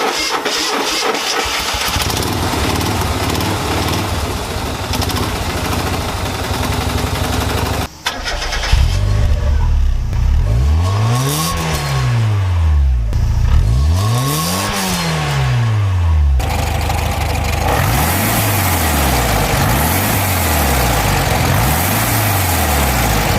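Car engines in three separate clips cut together. The first engine runs steadily. After a cut about eight seconds in, a second engine is revved up and back down twice. From about two-thirds of the way through, another engine is blipped over and over, rising and falling about every second and a half.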